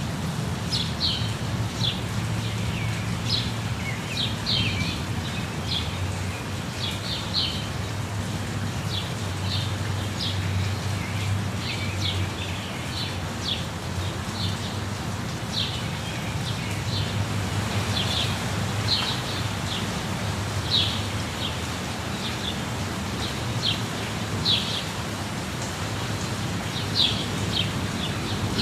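Steady rush of a waterfall, with birds calling over it in short, high chirps about once a second.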